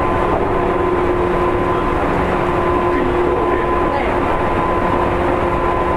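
Seibu 2000 series electric commuter train running at steady speed: a continuous rumble of wheels on rail with several steady humming tones from the running gear and motors, none of them changing in pitch.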